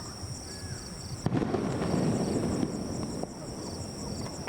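A firework shell bursts with a sharp bang about a second in, followed by about two seconds of crackling. Insects chirp steadily in a high pulsing trill.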